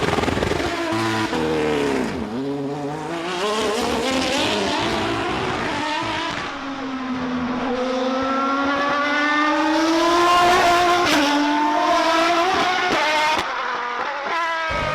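V12 supercar engine revving and accelerating through the revs. The pitch falls about two seconds in, then climbs steadily for several seconds, and the sound changes abruptly near the end.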